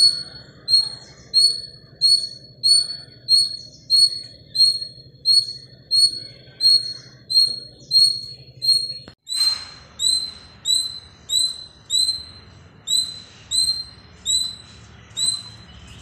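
A small bird repeating one short, high chirp very evenly, about three chirps every two seconds, with a brief break about nine seconds in.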